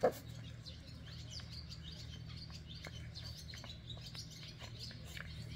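Small birds chirping in the background over a steady low hum, with one short puppy growl right at the start as two puppies wrestle.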